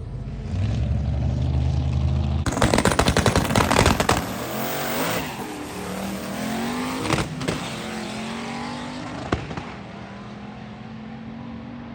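Drag-racing car launching down the strip: a steady low engine note, then a burst of rapid pops, then the engine revving up through several gear changes, its pitch rising and dropping at each shift as it fades away.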